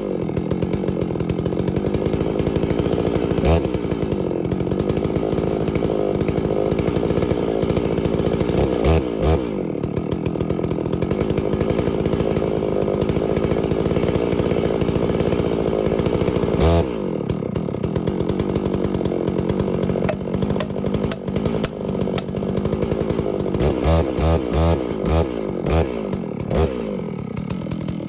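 Holzfforma G660 two-stroke chainsaw running at high revs, its pitch dropping and climbing back several times. Near the end come a series of quick throttle blips.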